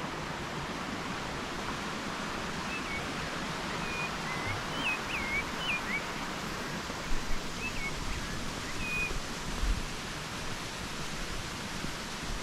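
Steady rushing of a waterfall, with a small bird giving a series of short, quick chirps through the middle.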